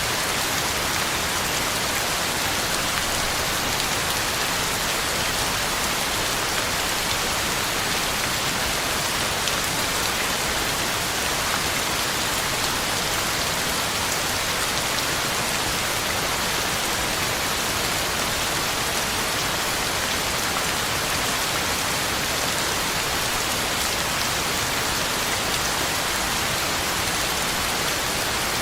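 Heavy rain falling steadily, a dense even hiss of drops on the ground and leaves, with no thunder or other events.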